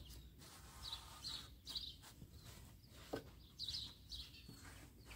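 Birds chirping faintly in short high calls, a cluster of them about a second in and another near four seconds in, over quiet outdoor background noise.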